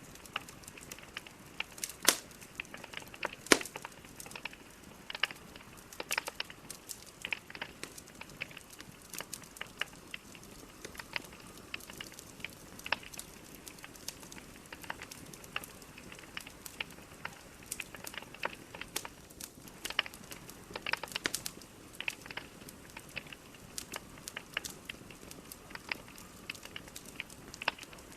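Logs burning in a fireplace: a steady soft hiss with irregular crackles and pops throughout, the two loudest pops about 2 and 3.5 seconds in.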